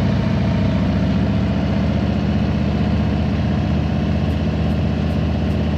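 Harley-Davidson Road Glide's V-twin engine running steadily at idle, with an even low pulsing beat.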